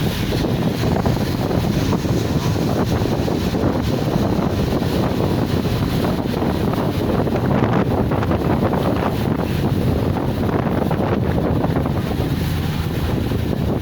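Wind buffeting the microphone over the steady running noise of a passenger boat under way, a dense low rush with no breaks.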